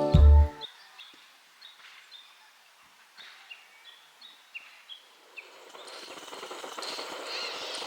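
Music cuts off just after the start, then small birds chirp in short, high, repeated notes over quiet outdoor ambience. A steady rushing background noise rises about five seconds in.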